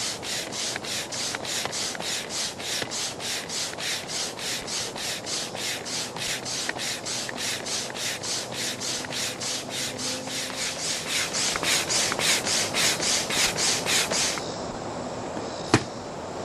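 Manual air pump inflating an inflatable raft's chamber: quick, even strokes of rushing air at about three a second, which stop abruptly near the end. A single sharp click comes shortly after.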